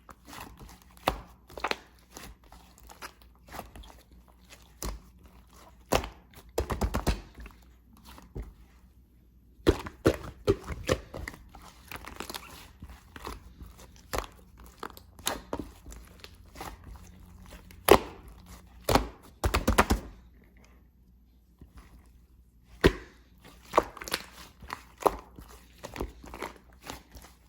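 Purple slime being squished and pressed by hand, giving irregular sticky pops, clicks and crackles, with two brief pauses.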